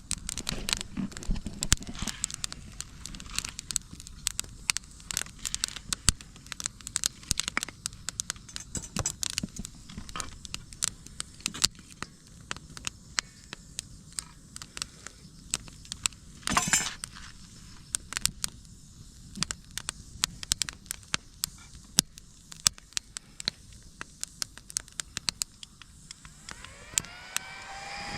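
Split firewood burning, crackling with frequent irregular sharp pops. Near the end a steady hum with several tones slides up in pitch and holds.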